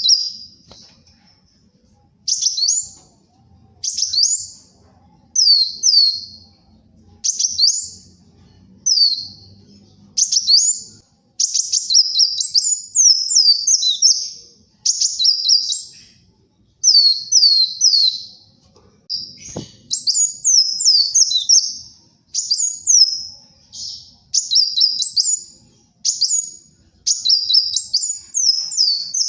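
Kolibri wulung sunbird singing: quick, high, twittering phrases of sharp sliding notes, repeated every second or two and running almost back to back in the second half. A single brief click sounds about two-thirds of the way through.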